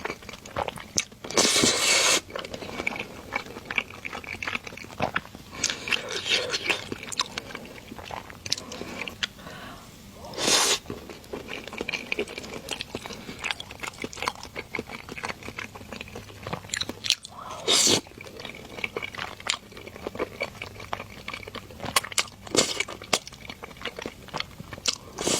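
Close-miked mouth sounds of eating stir-fried rice noodles: steady wet chewing and smacking, with about three louder, breathy slurps spread through the stretch.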